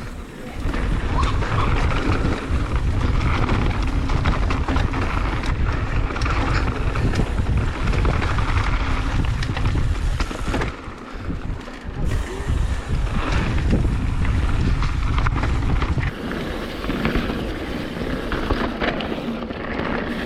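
Mountain bike descending a dirt trail at speed: wind buffets the on-bike camera's microphone as a steady heavy rumble, over tyre noise on dirt and scattered rattles and knocks from the bike. The wind rumble eases briefly about halfway through and again near the end.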